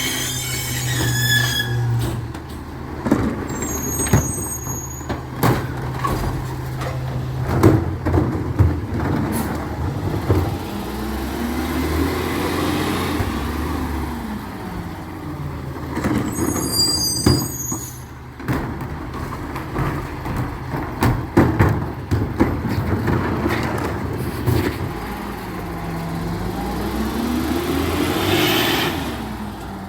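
Recycling truck working at close range: its engine runs and rises and falls in pitch several times, with repeated clanks and knocks and a few short high squeals.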